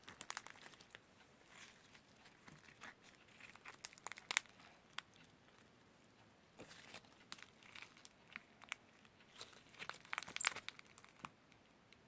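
Irregular crinkling and crackling in several bursts of quick sharp ticks, like dry material such as paper or bedding being rustled.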